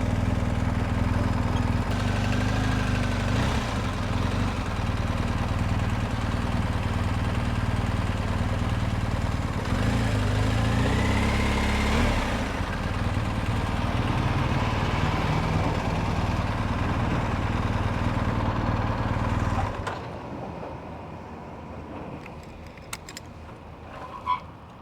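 BMW R 1250 GS boxer-twin engine running as the motorcycle is ridden slowly, its engine note rising briefly about ten seconds in. The engine sound stops abruptly about twenty seconds in, leaving a quieter background with a sharp click near the end.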